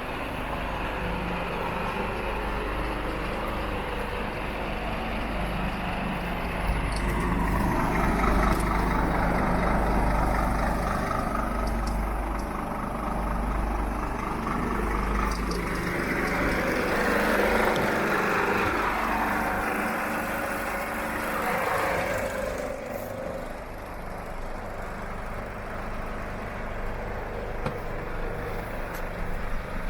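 Scania R460 truck's DC13 460 hp diesel engine running with a steady low rumble, with a rushing noise that swells twice in the middle and then fades.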